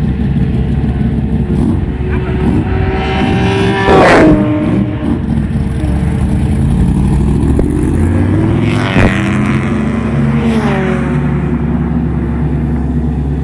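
Chevrolet Corvette C3 race car's V8 engine idling, blipped sharply about four seconds in and twice more later, the revs falling back after each blip.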